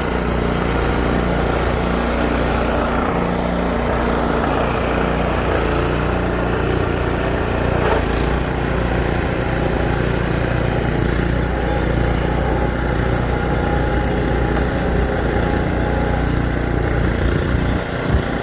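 Gas snowblower engine running steadily while clearing deep snow, with a brief dip in loudness near the end.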